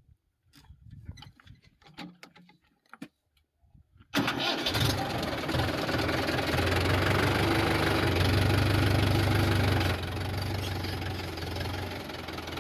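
A few clicks, then a tractor engine starts abruptly about four seconds in and runs steadily. Near the ten-second mark it drops back to a lower, steady idle.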